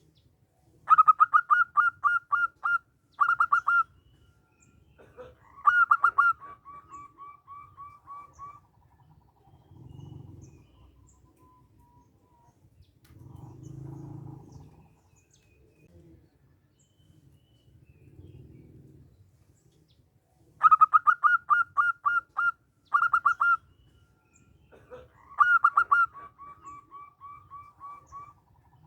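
Zebra dove (perkutut) singing. Two song bouts, each a fast run of loud staccato cooing notes followed by a trailing string of softer, slightly lower notes. The second bout begins about twenty seconds in.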